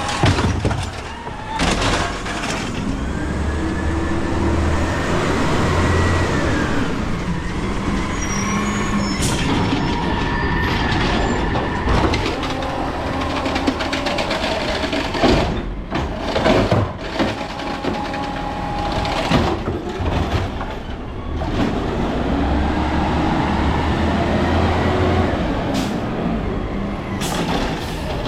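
Garbage truck with an Amrep Elliptical N2 automated side-loader body working its arm: the engine revs up twice to drive the hydraulics, with a rising and falling hydraulic whine. Sharp bangs come from the cart being slammed and shaken against the hopper.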